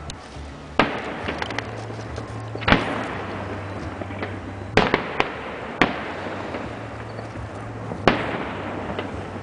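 Fireworks going off: about six sharp bangs at irregular intervals, each trailing off in a short echo, with smaller crackles between them.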